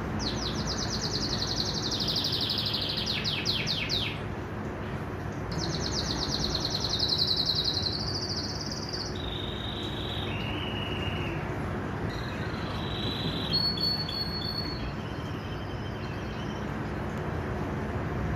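Domestic canary singing: a run of rapid trilled phrases, each held a second or two before switching to a new pitch, with a short pause about four seconds in. The song thins out about fifteen seconds in, over a steady low background hiss.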